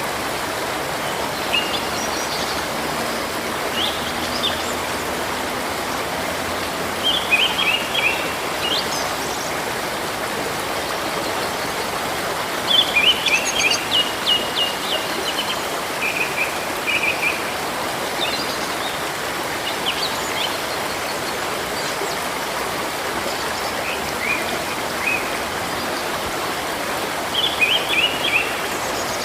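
Steady rush of a river or stream, with songbirds chirping over it in short phrases of rapid high notes that come and go several times.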